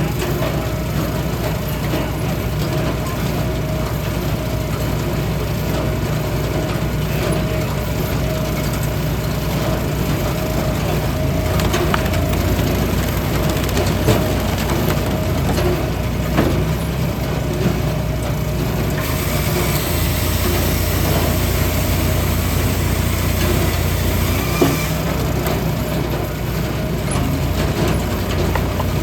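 A log splitter's engine running steadily, with wood cracking and splitting a few times as logs are driven through the wedge; the machine works harder for a few seconds past the middle.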